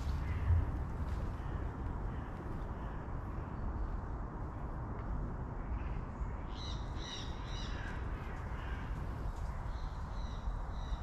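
A bird calling: a quick run of four or five short harsh calls about six seconds in, then fainter calls near the end, over a steady low rumble.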